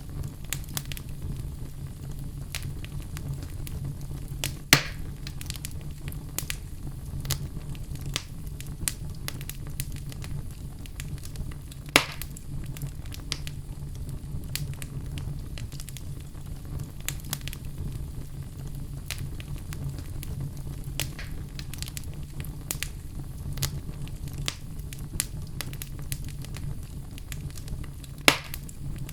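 Wood fire burning in a fireplace, crackling steadily with many small snaps and three louder pops, over a low steady rumble.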